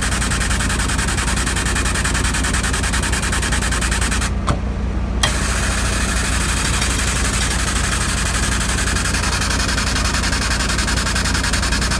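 An engine or machine running steadily, a continuous loud drone with a low hum and a fine even flutter. The sound drops out briefly just after four seconds in, with a click as it cuts and as it returns.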